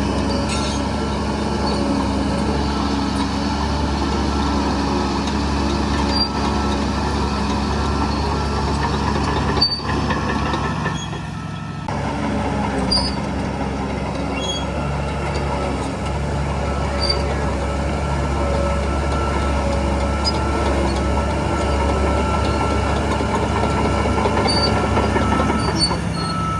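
Heavy diesel engine of a Shantui DH17C3 crawler bulldozer running steadily under work, with a sharp click about ten seconds in and a brief drop in level just after.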